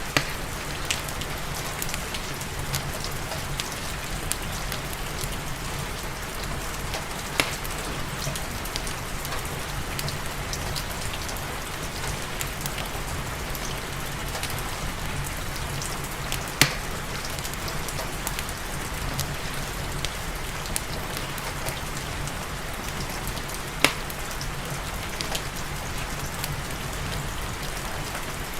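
Steady rain with the occasional sharp crackle of a wood fire in a fireplace; a few louder pops stand out, spaced several seconds apart.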